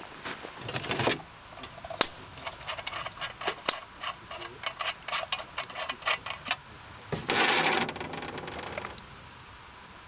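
Irregular clicks and light knocks of objects being handled, with a short rasping scrape about a second in and a louder, longer one lasting nearly two seconds from about seven seconds in.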